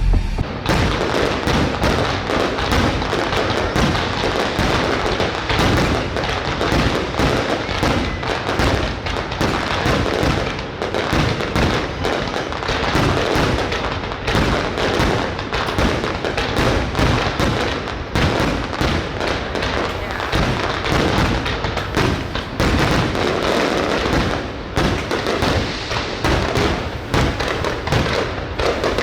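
Fireworks display going off in a dense, unbroken run of bangs and crackles.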